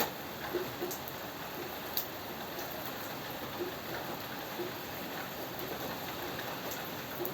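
Steady rain falling, an even hiss with scattered louder drops ticking irregularly close by.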